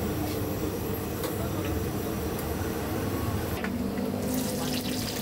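Goat meat stir-frying in a huge pot: a steady low rumble with a few light metal clinks, then a loud frying sizzle that starts about four seconds in.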